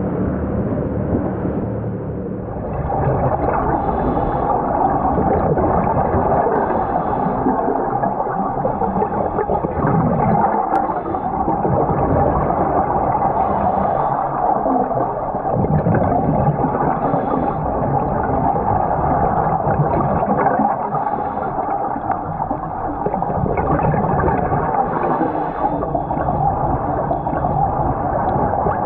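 Loud, steady rush of churning, gurgling water.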